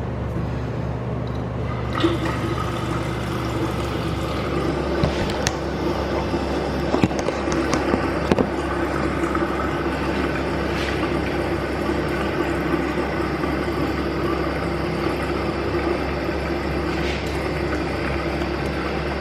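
Water rushing steadily through public restroom plumbing under a low hum, with a few sharp clicks about five to eight seconds in.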